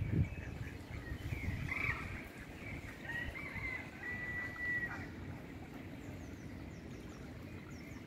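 Faint bird calls: short whistled notes, then a longer held whistle about three seconds in, and a few high chirps near the end, over a low steady outdoor rumble.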